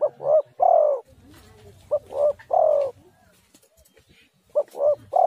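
Spotted dove (tekukur) cooing: three phrases, each of two short coos and a longer falling coo, repeated about every two seconds.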